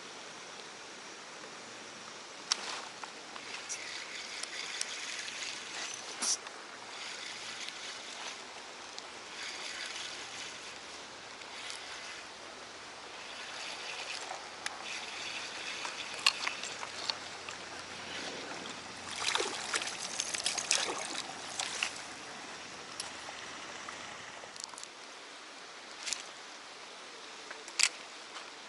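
Water splashing and trickling in irregular bursts, with a few sharp clicks and knocks in between.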